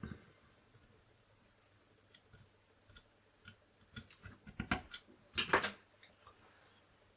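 Light clicks and knocks of cables and connectors being handled and plugged back into a Commodore 64, with a louder cluster of knocks about four and a half to six seconds in.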